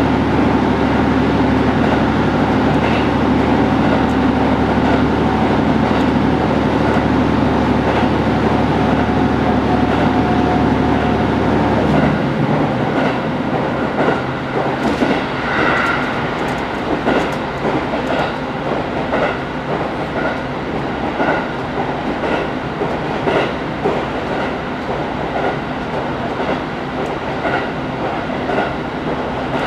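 HB-E210 hybrid diesel railcar under way: a low steady drone runs for about twelve seconds, then drops away abruptly. After that, wheels click rhythmically over the rail joints.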